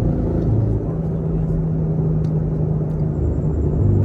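Chevrolet Camaro SS 1LE's 6.2-litre V8 running at a steady light cruise: a low, even drone with a held hum.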